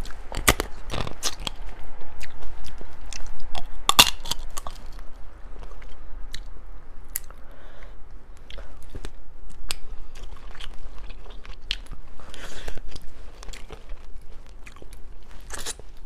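Close-miked eating of seafood: wet chewing and bites with sharp crunches, heaviest in the first few seconds and then a steadier run of smaller clicks.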